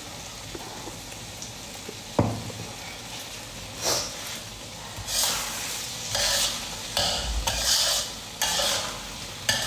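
Sambal frying in a wok, sizzling steadily, while a metal spatula stirs and scrapes the pan. There is a single knock of the spatula about two seconds in. From about four seconds in, the stirring strokes come a little more than once a second.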